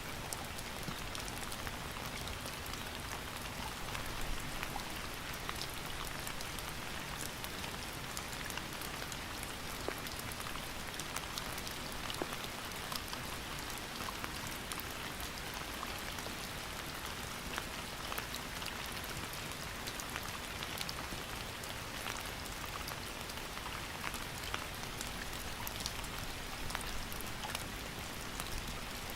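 Steady rain falling on a surface, a dense, even hiss with many small drop ticks.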